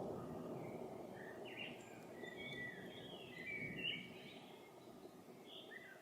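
Songbird singing a run of short chirps and whistles, with a low rumble of distant thunder fading away beneath it.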